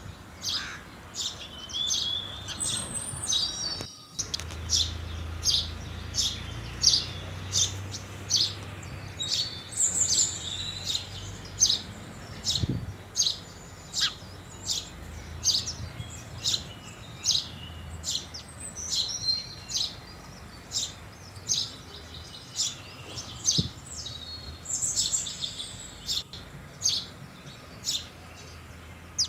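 House sparrows chirping: a steady run of short, high chirps, one or two a second, over a faint low hum.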